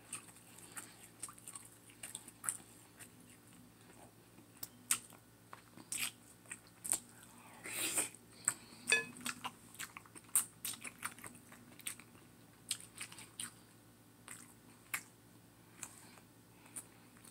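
Close-up wet chewing and mouth smacks of a person eating a boiled egg dipped in a thick sauce. A longer slurp comes about eight seconds in, as sauce is sucked off a wooden spoon.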